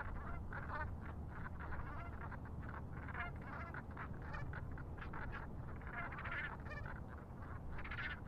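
A group of water birds calling: many short, overlapping calls repeated in quick succession, over a low steady rumble.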